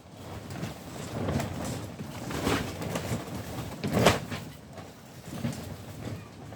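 Handling noise: things being moved and rustled about, with a few sharp knocks, the loudest about four seconds in.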